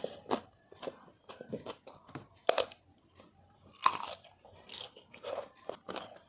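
Close-miked chewing and biting of sour mango and lime with spicy chutney: a run of irregular wet, crunchy mouth clicks and smacks, with two louder bites about two and a half and four seconds in.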